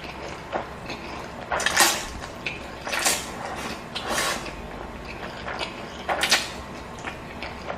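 Close-miked eating sounds from a person eating noodles and fried chicken: a run of short, sharp noisy bursts, about one a second, the loudest about two, three, four and six seconds in.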